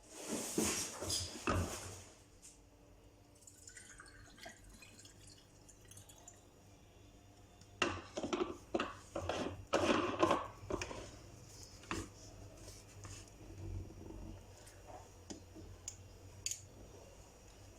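Clinks and knocks of kitchen things being handled and set down, in a cluster over the first two seconds and again about eight to eleven seconds in, with a few single knocks after, over a faint steady low hum.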